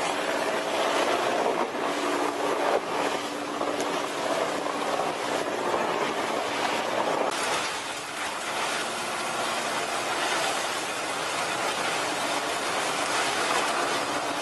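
Horizontal wood chipper running: a steady machine hum under a dense, continuous rush of noise, which gets brighter about halfway through.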